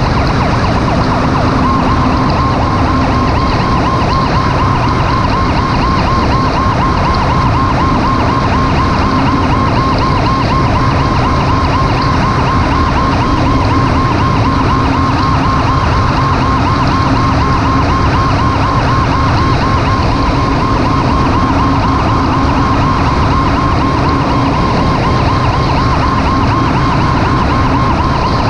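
Emergency vehicle siren sounding a fast, steady warble, coming in about two seconds in, over continuous road and engine noise from a vehicle on the move.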